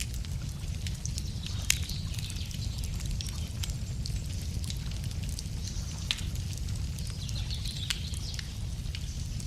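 Wood fire crackling, with irregular pops and snaps and one sharper pop about two seconds in, over a steady low rumble. Birds chirp faintly in the background.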